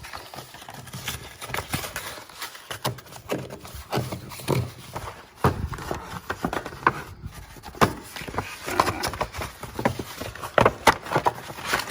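A Priority Mail package being torn open by hand: irregular tearing, rustling and knocks of cardboard and paper being handled.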